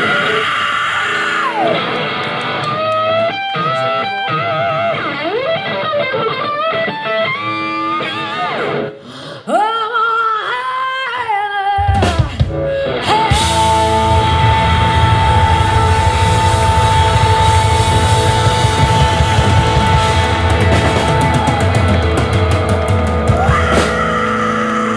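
Live rock band: for about twelve seconds a lone electric guitar plays bending lead lines, then the full band with drums comes in loud under one long held guitar note, like the drawn-out close of a song.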